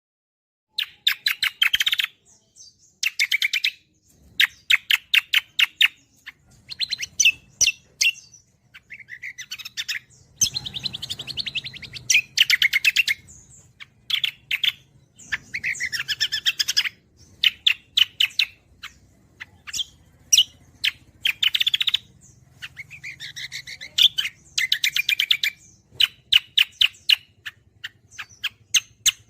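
Cucak kombo singing: fast chattering phrases of rapidly repeated high notes, each phrase a second or two long with short breaks between, over a faint low hum.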